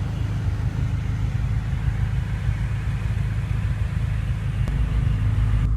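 Steady low hum and rumble of the BMW M5's engine idling, heard from inside the cabin, with a faint click about four and a half seconds in.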